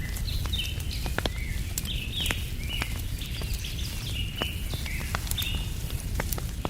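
Campfire crackling with scattered sharp pops over a low, steady rumble, while a bird repeats short falling chirps about twice a second.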